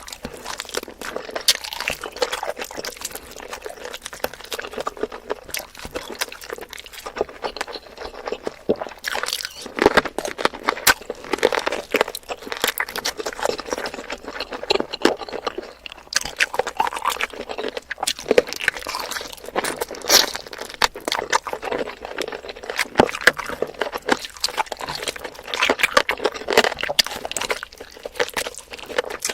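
Close-miked eating of spicy chicken feet: wet chewing with crunches and a dense, uneven run of small clicks and smacks.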